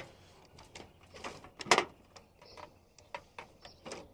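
Scattered light clicks and knocks of a hand tool being set against aluminum sheet, with one louder knock a little under halfway through.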